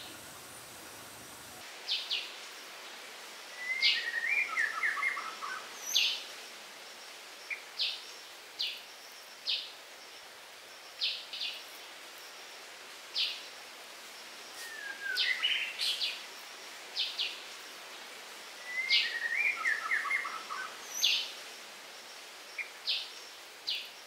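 Birds calling: short, high chirps repeated every second or two, with a descending warbled phrase three times, over a steady background hiss.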